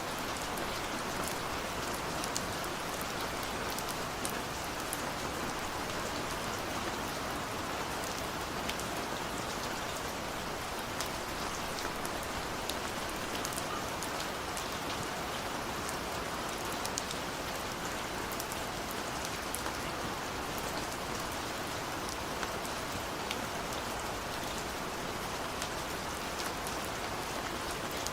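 Steady, even rainfall with many small drops ticking against a window pane.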